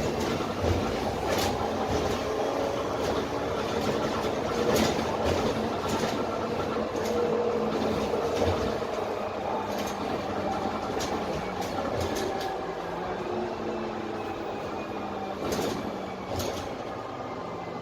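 Inside the lower deck of a Dennis Trident 12 m double-decker bus under way: its Cummins ISMe diesel engine and Voith DIWA automatic gearbox keep up a steady rumble. A faint whine drifts up and down in pitch, and frequent short rattles come from the body and fittings.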